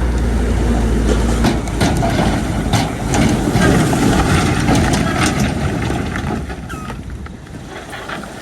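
Heavy diesel earthmoving machinery working: a deep steady engine hum for the first second and a half, then a noisy clatter with many sharp metallic knocks.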